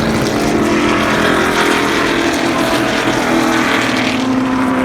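A field of NASCAR Cup stock cars' V8 engines running at pace-lap speed, a steady loud drone with several engine tones overlapping and shifting in pitch as cars pass.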